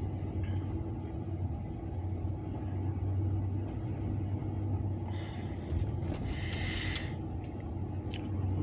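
Steady low engine rumble with a constant hum, and a short stretch of higher noise about five to seven seconds in.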